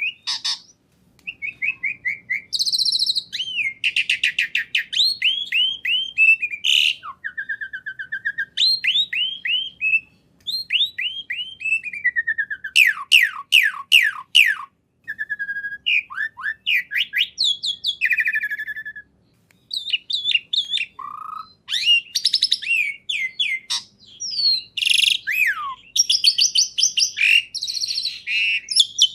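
A songbird singing a long, varied song. Rapid trills, runs of repeated down-slurred notes and short high whistles follow one another with only brief pauses.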